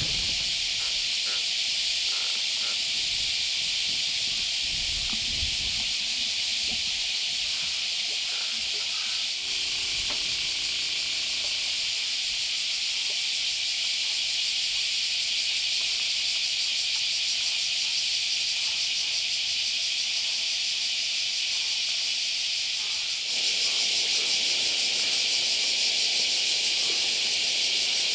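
Cicadas buzzing in a steady, high, continuous chorus. It gets a little louder and fuller near the end.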